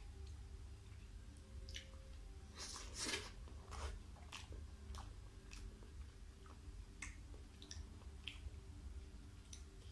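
Close-miked chewing of a fried brinjal (eggplant) slice: soft, wet mouth clicks and smacks scattered throughout, with a louder burst about three seconds in.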